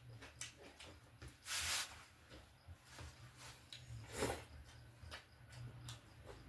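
Close-up eating sounds of a mukbang: wet chewing and lip smacks as chicken is eaten, with a loud breathy hiss about a second and a half in and a sharper smack a little after four seconds.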